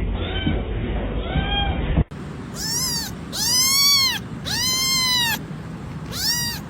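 Domestic cat meowing: two short meows, then, in a clearer recording, four long drawn-out meows, each rising and then falling in pitch.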